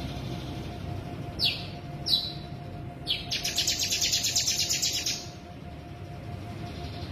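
Crimson sunbird (sogon) singing: two sharp down-slurred notes, then a fast buzzing trill of about nine notes a second lasting some two seconds, the rapid 'bren' rattle that songbird keepers prize.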